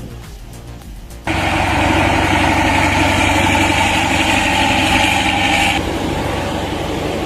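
A vehicle engine running loudly and steadily, cutting in abruptly about a second in; its higher part drops away near the end, leaving a lower, quieter running sound.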